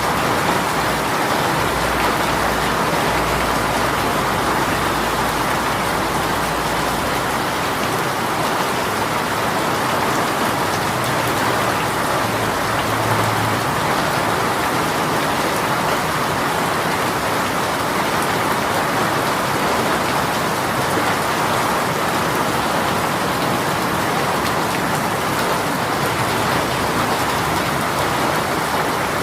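A rain shower falling steadily and heavily, an even hiss of drops on surfaces. A low rumble sits under it for the first several seconds.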